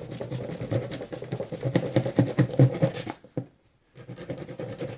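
Steak knife sawing at a cardboard delivery box, a rapid run of scratchy back-and-forth strokes that breaks off for under a second about three seconds in, then picks up again.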